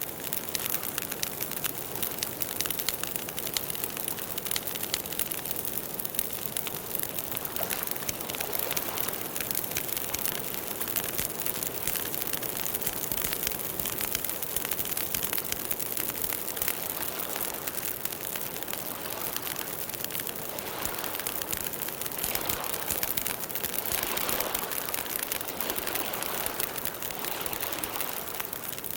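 Campfire burning, the wood crackling densely and steadily over a soft hiss that swells a little in the second half.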